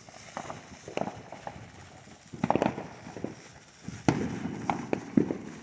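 Fireworks and firecrackers going off: scattered bangs and crackling pops at irregular intervals, with a dense cluster about two and a half seconds in and the sharpest bangs about four and five seconds in.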